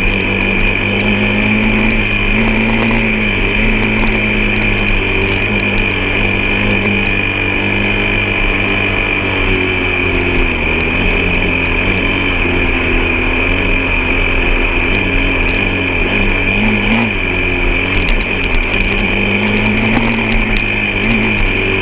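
Vehicle engine running steadily under way, its pitch rising and falling slightly, with a constant high whine over it.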